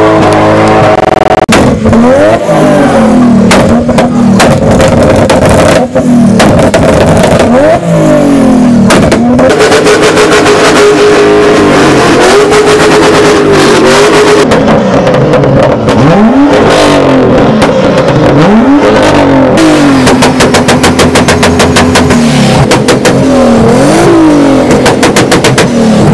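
Loud car engine revved hard again and again, its pitch climbing and dropping back, with runs of rapid sharp exhaust cracks between the revs.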